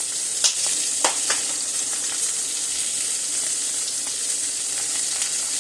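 Steaks frying in a pan, a steady sizzle. A few sharp clicks sound about half a second to a second and a half in.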